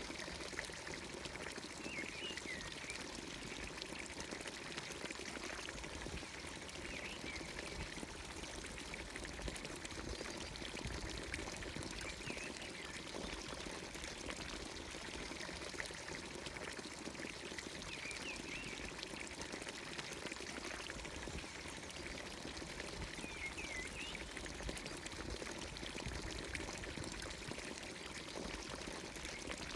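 Water pouring steadily from a traditional Anatolian village fountain's spout, with short bird chirps every few seconds.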